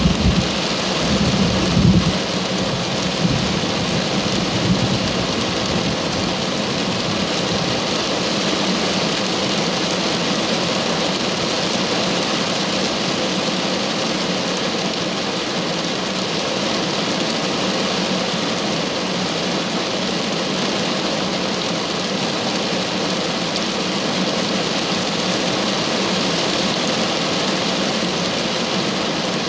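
Steady downpour of rain during a thunderstorm, with a low rumble of thunder in the first two seconds.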